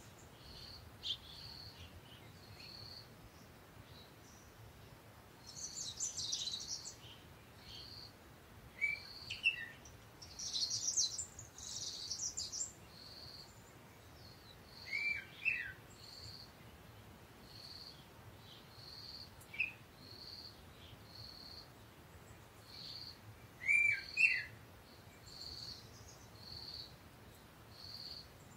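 Small birds chirping: a steady run of short high chirps about once a second, with bursts of rapid twittering and a few louder down-slurred calls, the loudest near the end.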